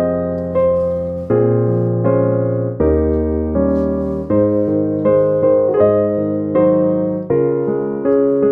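Background piano music: soft chords struck at an even, slow pace, each note dying away.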